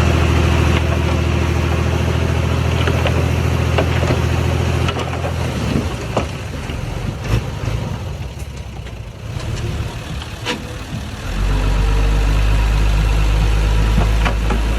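Diesel engine of earthmoving machinery running steadily. About five seconds in it drops away for several seconds, with scattered clanks and knocks, then comes back strong with a deep hum about eleven seconds in.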